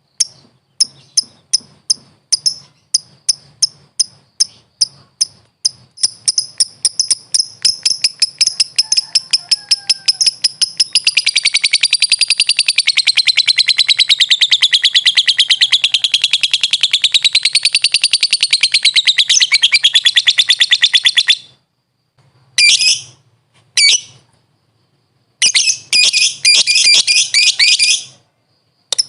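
Lovebird calling: sharp, high chirps repeated about three a second speed up into a long, rapid chattering trill that wavers in pitch, the 'ngekek' song that keepers prize. The trill stops about 21 seconds in, and two shorter chattering bursts follow.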